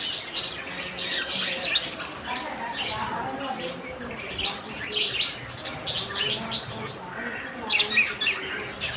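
Pet lovebirds and budgerigars chirping and squawking, many short overlapping calls in a constant chatter.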